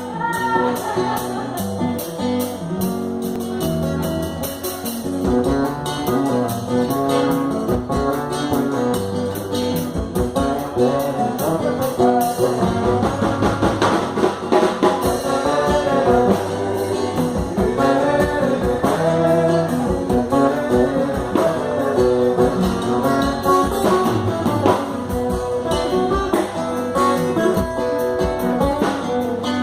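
A live band playing during a sound check, with guitar prominent and percussion keeping a steady beat.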